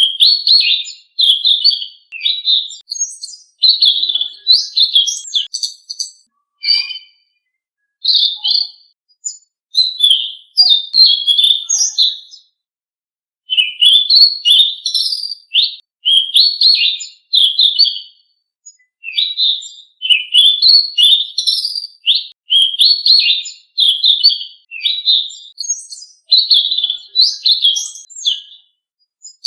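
Songbird song of the kind sold in Indonesia as 'selendang biru' masteran: quick chirpy whistled phrases in short bursts, one after another, with brief pauses and a longer pause about twelve seconds in.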